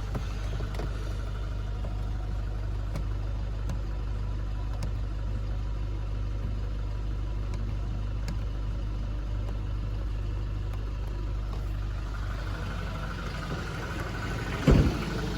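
Toyota Innova Crysta engine idling steadily, with one brief loud thump near the end.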